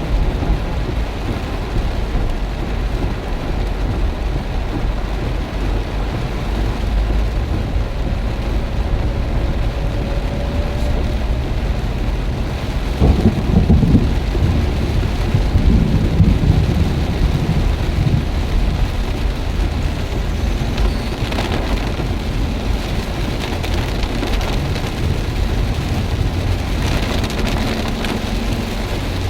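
Heavy rain pouring down with a steady low rumble of strong wind, and a louder rumbling swell roughly midway through.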